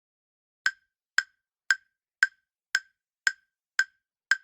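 Countdown timer sound effect: sharp, clock-like ticks at an even pace of about two a second, beginning just under a second in, counting down the time to answer a quiz question.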